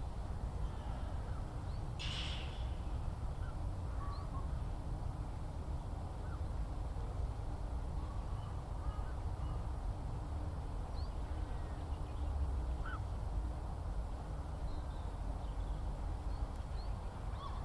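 Countryside ambience of scattered faint bird chirps over a steady low rumble, with one short harsh bird call, crow-like, about two seconds in.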